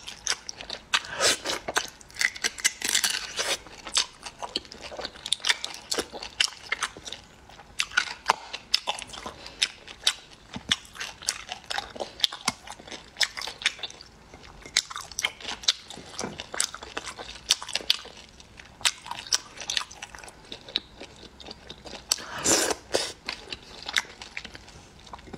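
A person chewing and crunching food close to the microphone: a continuous run of sharp crunches and wet mouth clicks, with louder bursts of crunching about a second in and again near the end.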